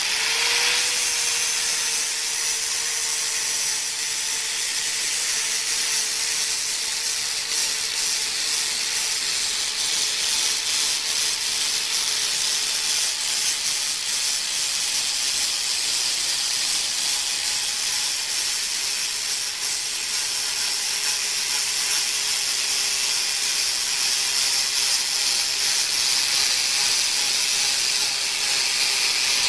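A power tool with a spinning abrasive working on steel: a steady, harsh hiss over a motor whine that spins up as it starts and sags slightly in pitch under load, as the surface is prepared, for example by taking off mill scale.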